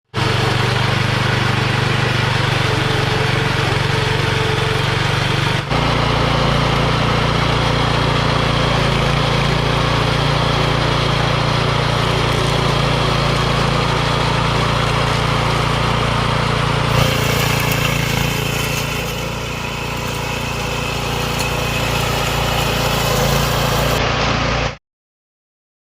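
Homemade remote-controlled lawn mower running steadily with a mechanical drone. The sound changes abruptly twice and cuts off about a second before the end.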